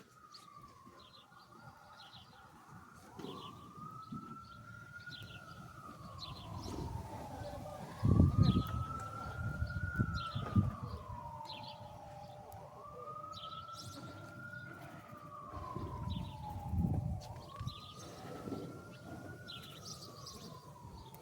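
Emergency-vehicle siren on a slow wail, rising quickly and falling slowly, about every five seconds. Small birds chirp throughout, and a low rumble swells twice.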